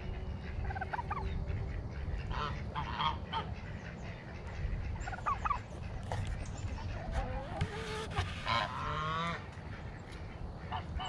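Geese honking among a flock of farmyard fowl: scattered short calls, with a burst of calls and a longer honk about eight to nine seconds in.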